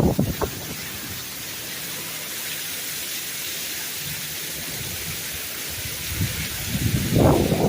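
Heavy downpour of rain, a steady hiss, with a low rumble that swells up about six seconds in and is loudest near the end.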